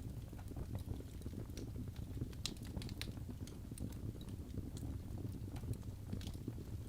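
Wood fire burning in a fireplace: a steady low rumble of flames with scattered sharp crackles and pops from the logs, a brief flurry of louder pops about two and a half to three seconds in.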